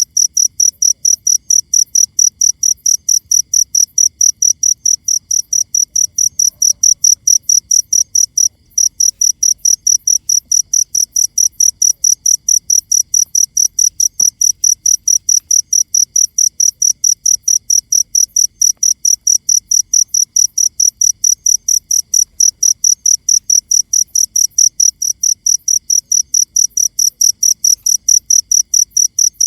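Cricket chirping steadily, a short high-pitched chirp about four or five times a second, with one brief pause about eight seconds in.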